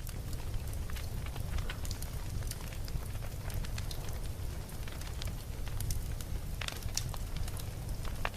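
Campfire burning, with a steady low rumble of flames and irregular wood crackles and pops, a few louder pops near the end.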